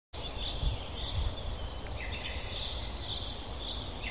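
Outdoor garden ambience with birds singing over a low background rumble, including a quick run of high chirps a little past the middle.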